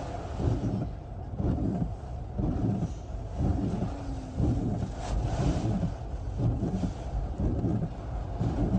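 Hurricane eyewall winds gusting hard, buffeting the microphone in rapid, uneven surges of low rumbling noise.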